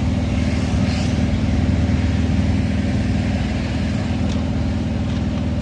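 Steady road and engine noise inside a moving car's cabin: a low rumble with an even hiss of tyres and wind.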